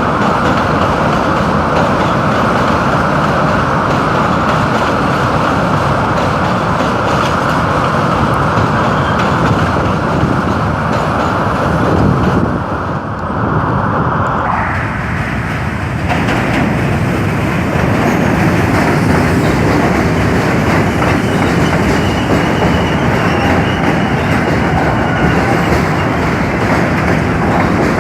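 New York City subway train running over the rails with a steady clattering of wheels, loud throughout. About 13 seconds in the sound dips briefly, then comes back with a brighter, harsher edge.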